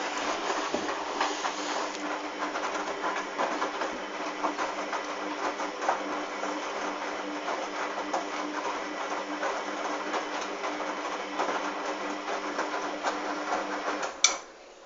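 Hoover washing machine running, its motor's steady hum mixed with a constant rattling clatter from the drum. Near the end, a sharp click and the machine's sound cuts off suddenly.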